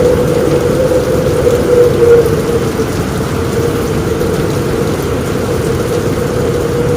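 Steady heavy rain on a roof, with a low rumble underneath.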